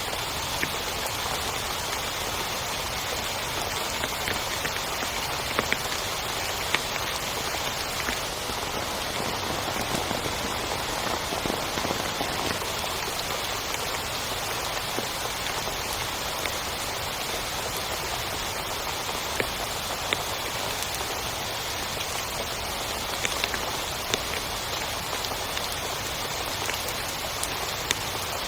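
Heavy rain falling steadily, a dense even hiss with many scattered louder drop taps throughout.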